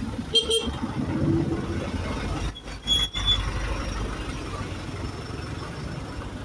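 Trans Jogja city bus rolling slowly past with a steady low engine rumble, and short high-pitched squeals twice, about half a second in and around three seconds in.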